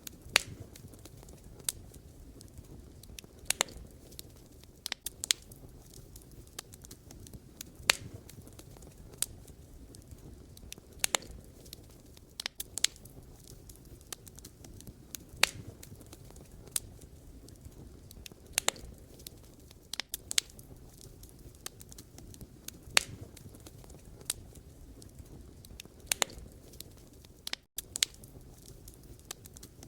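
Campfire of burning wood crackling: irregular sharp pops from the logs, roughly one or two a second, over a low steady rumble.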